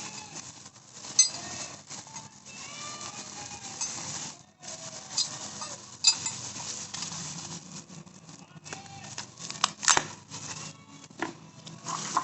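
Clicks, taps and rustling as motorcycle accessory parts and their packaging are handled, with several sharp knocks. Short chirping animal calls sound in the background throughout.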